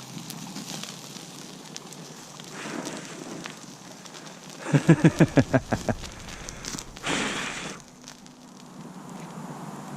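Open campfire crackling and hissing, with scattered small pops. About five seconds in, a quick run of about eight low pulses, followed by a short rush of noise.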